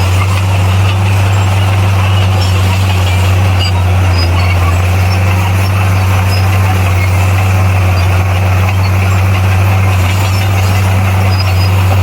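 Komatsu D58P bulldozer's diesel engine running loud and steady at constant speed, a deep even drone over mechanical noise.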